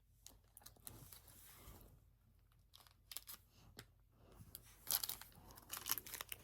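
Snack packaging crinkling and tearing in short, scattered crackles, louder about five seconds in.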